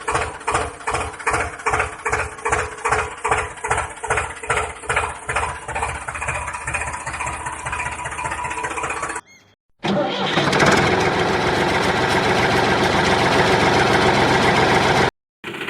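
Tractor engine chugging in an even beat of about three strokes a second. After a brief break about nine seconds in, it gives way to a steadier, busier running noise.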